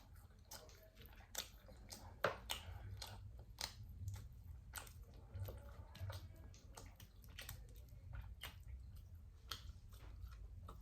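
A person chewing and biting into saucy barbecue pork spare ribs close to the microphone: a run of short, irregular wet clicks and smacks.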